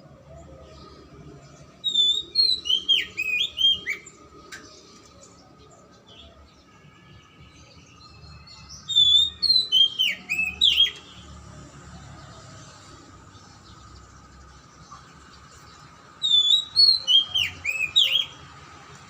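Oriental magpie-robin singing three phrases of rapid, swooping whistled notes, each about two seconds long and several seconds apart, over a faint steady tone.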